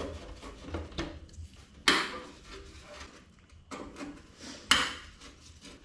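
Small parts being handled and set down on a workbench: light clicks and clinks, with two sharper knocks, about two seconds and about four and a half seconds in.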